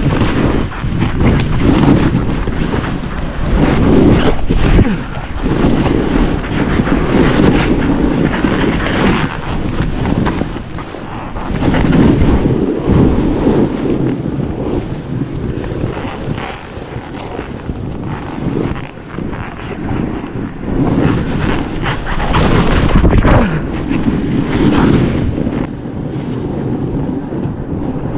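Wind buffeting the microphone during a snowboard run, with the board scraping and hissing over snow in surges that rise and fall every few seconds.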